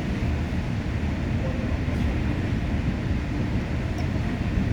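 Interior running noise of a new-build Busan Metro Line 1 subway car moving between stations: a steady, even, low running sound of wheels on rail and traction equipment.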